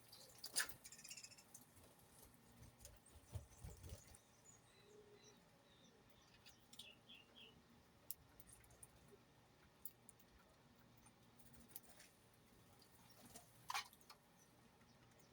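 Faint, sparse small-bird chirps and scattered light clicks, with one louder upward-sweeping chirp about a second and a half before the end.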